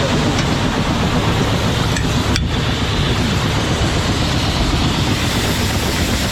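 Steady, loud mechanical rumble and hiss of heavy machinery, with a brief break about two and a half seconds in.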